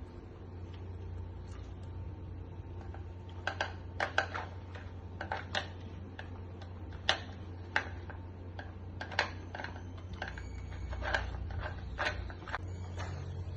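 A series of irregular sharp clicks and taps, like small objects being handled, over a steady low hum.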